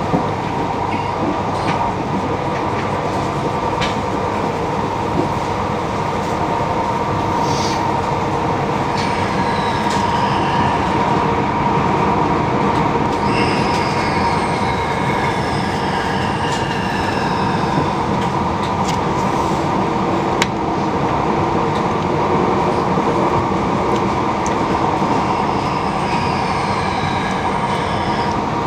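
A passenger train running at speed, heard from inside the carriage: a steady rumble with a constant hum. High-pitched wheel squeals slide downward in pitch several times through the middle and again near the end, and there are a few sharp knocks, one louder knock about two-thirds of the way in.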